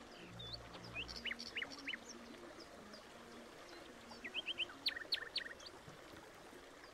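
Birds chirping faintly in quick runs of short, high chirps: one cluster about a second in and another about four to five seconds in.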